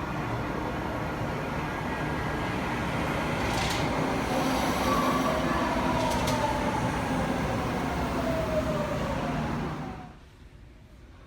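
Train running on the rails, a steady rumble and rush with a tone that slides down in pitch over the second half. It cuts off abruptly near the end.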